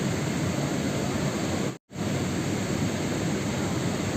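Steady rain noise, a dense even hiss that cuts out completely for a split second just under two seconds in.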